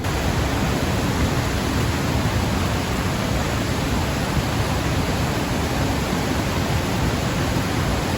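Steady, even rushing noise with no distinct events, heaviest in the low end.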